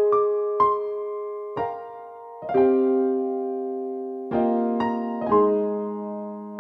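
Background music: slow electric piano playing single notes and sustained chords, each struck and left to ring out.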